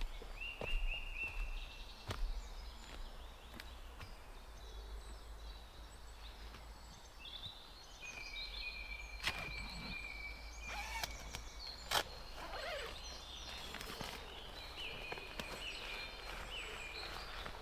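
Small birds singing and chirping in woodland, with a few scattered sharp knocks or clicks; the loudest knock comes about twelve seconds in.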